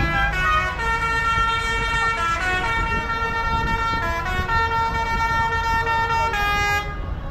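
A vehicle's musical horn playing a tune of held notes that step up and down, stopping abruptly near the end, over a low engine rumble.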